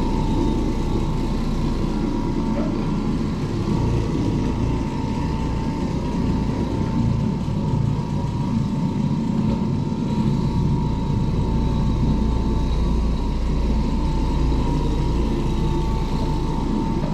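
Oreck Orbiter orbital floor machine running steadily while buffing carpet: a continuous motor drone with a steady whine on top.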